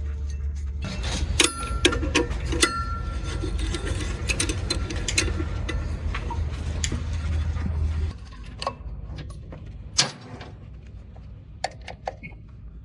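Metal tools clinking and tapping on engine parts, some knocks ringing briefly, over a steady low hum that cuts off about two-thirds of the way through.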